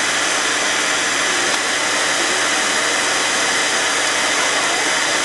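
Hair blow dryer running steadily, a constant rushing of air with a faint high motor whine.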